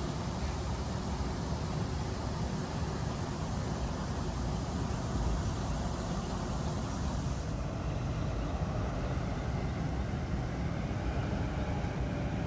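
Steady low rumbling noise with a hiss on top; the hiss drops away a little past halfway through.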